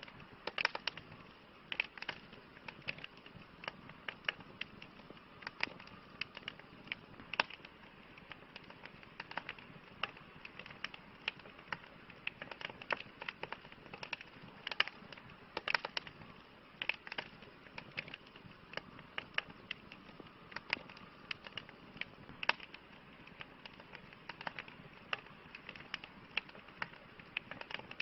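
Campfire crackling: frequent sharp, irregular snaps and pops over a soft steady hiss.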